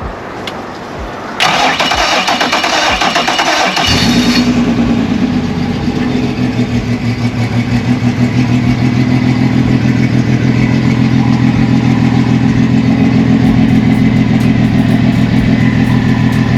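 2006 Yamaha F250 3.3-litre V6 four-stroke outboard being started: the starter cranks it for about two and a half seconds, it catches about four seconds in and settles into a steady idle. This is its first run on fresh oil and a new filter.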